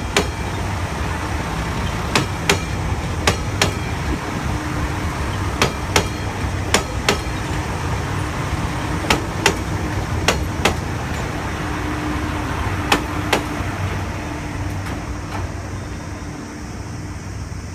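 JR Shikoku 2600 series diesel railcars rolling slowly past, their wheels clicking over rail joints in pairs, about one pair a second, over a steady low running hum. The clicks grow fainter and sparser near the end as the train moves away.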